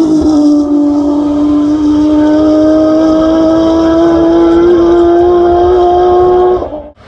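Race car engine held at high revs, its note climbing slowly and steadily as the car accelerates, then cutting off suddenly near the end.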